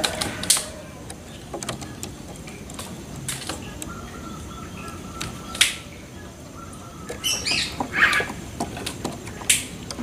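Birds giving short chirps and squawks among scattered sharp clicks. A faint held tone runs from about four seconds in, and a quick cluster of chirps comes about seven to eight seconds in.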